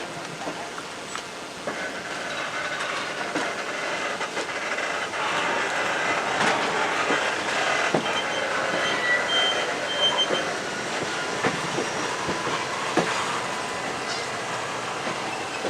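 Train rolling past, with wheels knocking over rail joints and a steady rumble that builds from about two seconds in. Thin high-pitched wheel squeals come briefly around the middle.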